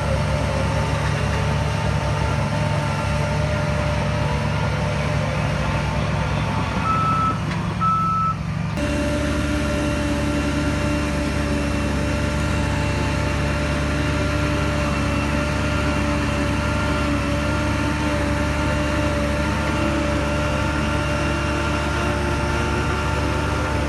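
Heavy earthmoving machinery engine running steadily, with two short high-pitched reversing-alarm beeps about seven and eight seconds in. The engine note shifts abruptly just after the beeps.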